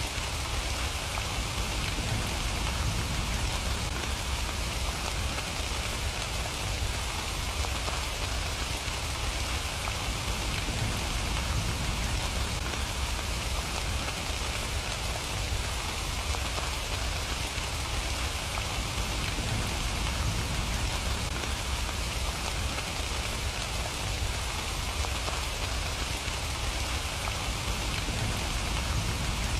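Steady rain falling on surfaces, an even hiss of many drops with a low rumble underneath and no single drops standing out.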